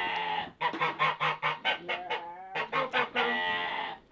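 Domestic goose honking in a rapid run of repeated calls, about six a second, broken by two short pauses.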